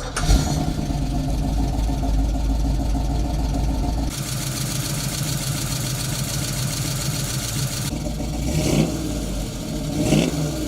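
V8 muscle car engine running steadily, the sound changing abruptly twice as if cut between clips, then blipped in short revs near the end.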